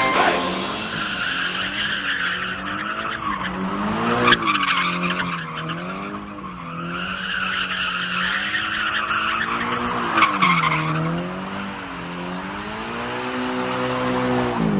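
Car doing a burnout: the engine revs up and down again and again while the spinning tyres squeal against the pavement. Two brief sharp sounds stand out, about four and ten seconds in.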